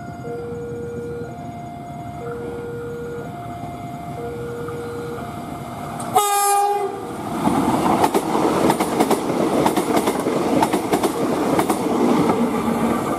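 Electronic two-tone warning alarm alternating between a low and a higher note about once a second. About six seconds in, a short train horn blast sounds as a Prameks diesel multiple unit passes close by, and its wheels then rumble past with irregular clicking over the rail joints.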